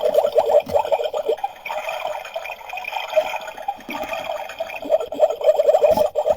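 Water running and bubbling in a miniature toy kitchen, a quick steady flutter that turns brighter and splashier for a couple of seconds in the middle.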